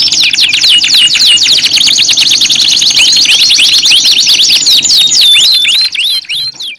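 Canary song: fast trills of repeated falling whistled notes, several a second, running on without a break. The song thins out and fades away near the end.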